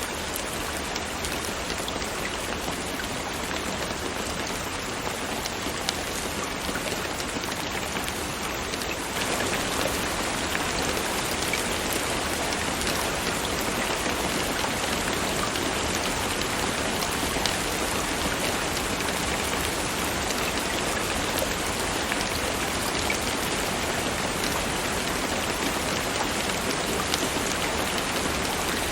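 Steady rainfall, with scattered single drops striking close by; it gets a little louder about nine seconds in.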